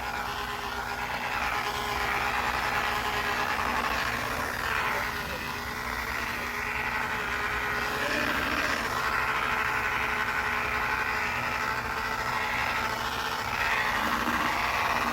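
Electric polisher running at low speed, its pad buffing compound into a plastic headlight lens; a steady motor whine whose pitch and strength shift a little as the pad is worked.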